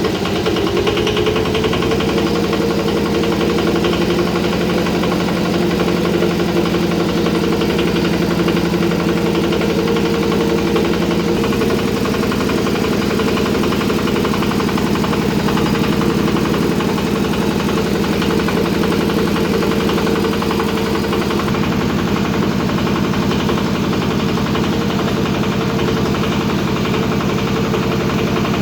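Yanmar 105 diesel engine running steadily at an even speed with a regular pulsing beat. Its pitch shifts slightly twice, about a third and two-thirds of the way through.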